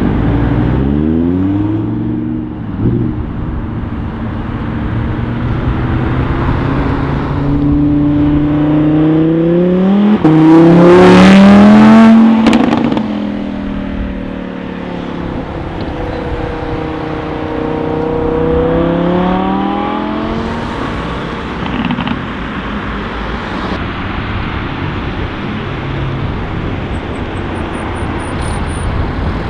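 Audi R8's 5.2-litre V10 accelerating hard through the gears, revving briefly as it pulls away, then climbing steadily to its loudest about ten to twelve seconds in. It breaks off suddenly, pulls up again in the next gear and fades as the car drives off.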